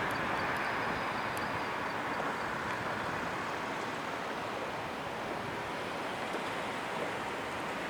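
A train rolling past: a steady rushing noise of wheels on rail that eases off slightly.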